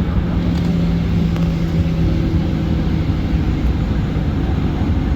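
Boeing 737 cabin noise heard from inside the cabin: a steady low rumble and hiss from the running engines and air conditioning, with a steady hum that fades out about four seconds in.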